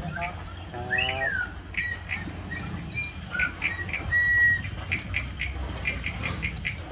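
Birds chirping in short repeated calls, with one swooping squawk about a second in and a longer held call about four seconds in, over a steady low rumble.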